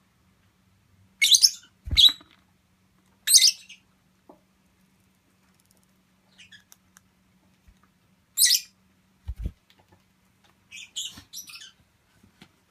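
A pet parakeet chirping in short, high-pitched bursts, about six times with pauses between, with a couple of soft low bumps.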